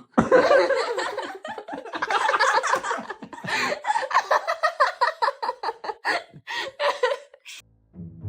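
Hearty human laughter, dense at first and then coming in short rhythmic bursts of about three or four a second, stopping about seven and a half seconds in.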